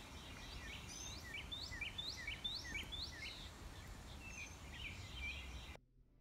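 A songbird singing a repeated series of short rising chirps, about two a second, over faint steady outdoor background noise. It cuts off suddenly near the end.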